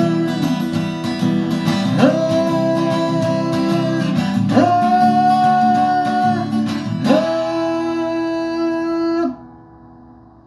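Acoustic guitar strummed as the song's outro, with three long wordless sung notes, each sliding up into the held pitch. The music stops suddenly a little after nine seconds in, leaving faint background hiss.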